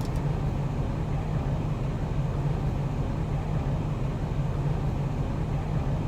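Steady low hum with an even rumbling noise, unchanging throughout.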